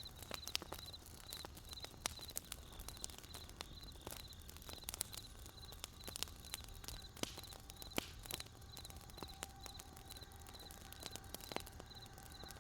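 Wood fire crackling, with irregular sharp pops, while a cricket chirps steadily in the background.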